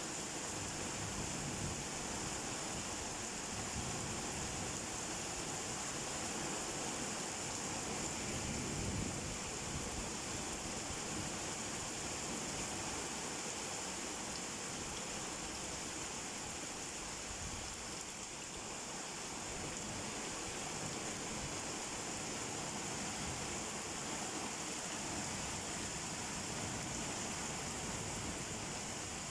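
Steady rainfall, an even hiss of falling rain without a break.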